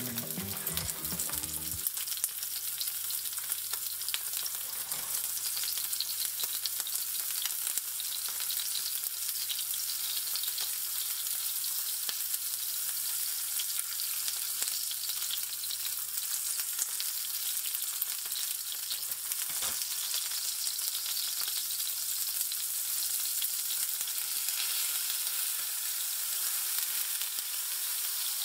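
Beef oyster blade steaks searing in a hot nonstick frying pan: a steady sizzle and crackle of fat and meat juices. A little background music fades out about two seconds in.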